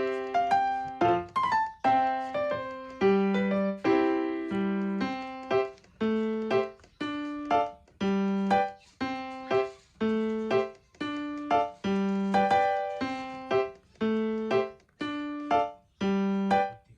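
Background piano music: a simple tune of evenly paced notes, about two a second.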